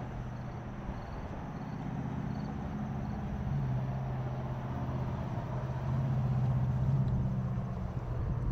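Steady low hum of a motor vehicle engine. It grows louder about halfway through and eases off near the end, over a low rumbling background.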